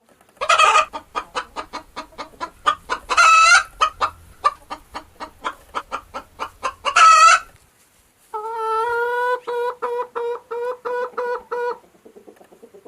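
Chicken cackling: a run of rapid clucks, about four or five a second, broken by three loud squawks. After a short pause, a different pitched call is held briefly, then breaks into quick repeated pulses.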